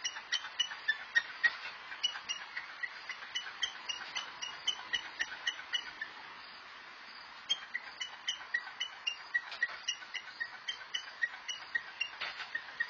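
A bird pecking at a mirror: rapid sharp taps, about four or five a second, each with a short ringing note. The pecking stops for a second or two about six seconds in, then resumes.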